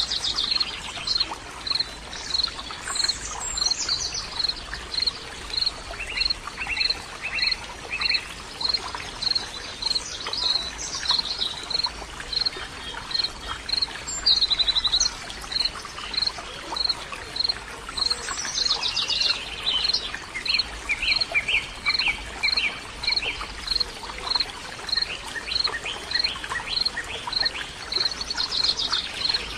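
Birds calling in natural ambience: a short, high chirp repeats steadily about once a second throughout, while other birds add varied calls and short trills. A steady background hiss lies underneath.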